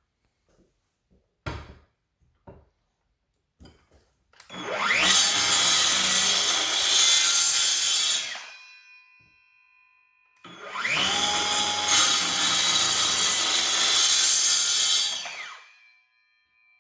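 Skil PWRCore 20V brushless cordless circular saw with a 24-tooth wood blade making two cuts through timber, each about four to five seconds long. In each cut the motor whines up as it spins, cuts, then winds down. There is a single knock shortly before the first cut.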